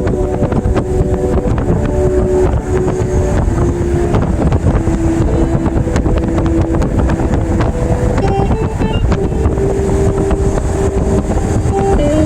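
Wind rushing and buffeting over the microphone, with low rumbling road noise from a moving car. A song's instrumental melody of held, stepping notes plays underneath.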